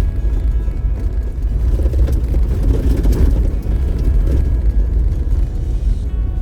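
Off-road vehicle driving over a rough dirt trail: a steady low engine and road rumble, with music playing faintly over it.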